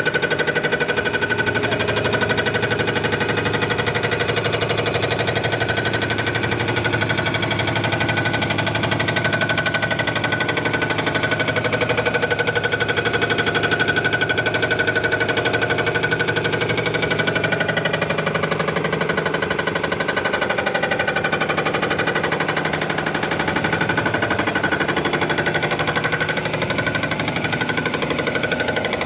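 Machine-shop machinery running steadily with a fast, even rattle and a steady whine.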